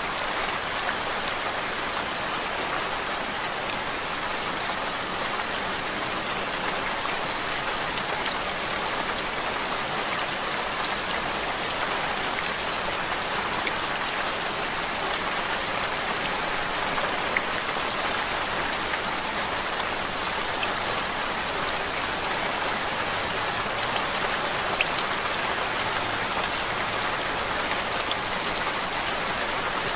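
Steady rain, an even hiss with faint scattered drop ticks and no change in level throughout, played as a white-noise track.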